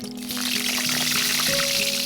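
Liquid being poured in a steady hiss that cuts off abruptly at the end, over background music with held notes.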